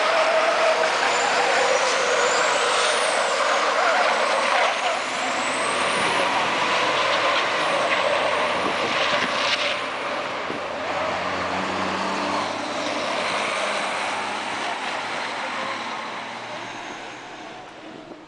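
Formula Truck racing trucks' diesel engines running at speed, with faint high whistles rising and falling over the engine noise. The sound fades away over the last couple of seconds.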